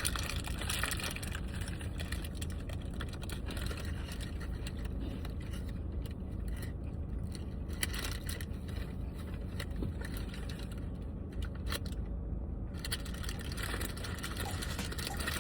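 Paper sandwich wrapping being handled, crinkling and crackling in small scattered clicks over a steady low rumble.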